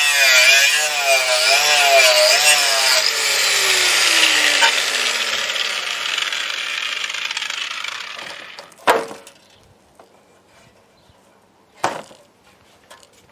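Handheld power tool running under load, its whirring pitch wavering, then switched off about three seconds in and winding down to a stop over a few seconds. Two sharp knocks follow, one near the middle and one near the end.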